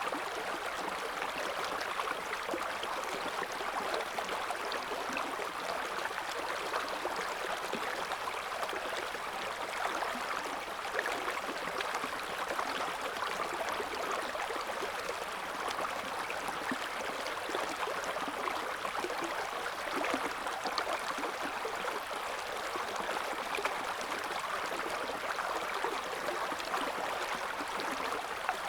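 River water flowing and gurgling over stones: a steady, even rush with small splashes throughout.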